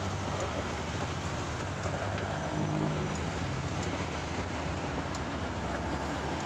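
Steady motor-vehicle noise with a low hum running underneath.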